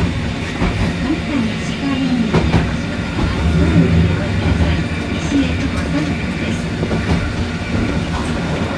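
Randen tram running along the Kitano line: a steady low rumble with wheels clicking over the rail joints.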